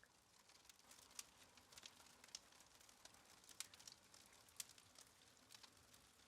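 Faint crackling of a wood fire: irregular sharp pops and snaps over a soft hiss.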